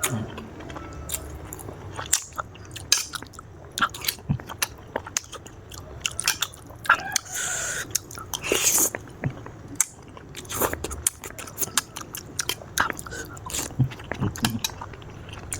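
Close-miked mukbang eating of spicy instant noodles with kikil: steady wet chewing and biting with many small irregular clicks, and a longer noisy stretch near the middle.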